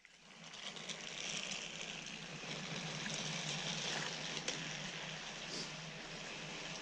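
Battery-powered Trackmaster toy trains running on plastic track: a steady whirring hiss of small motors and gears, with a few faint clicks of wheels over the track joints. It fades in over the first second.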